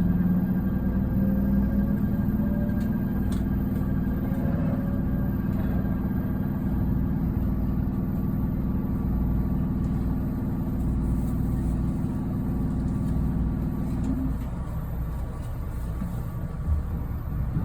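JR East 253 Series electric train pulling away, its Toyo Denki IGBT-VVVF traction equipment giving a steady hum with a rising whine in the first few seconds over the running rumble. About fourteen seconds in the hum cuts off as traction power is shut off, and only the rolling rumble remains.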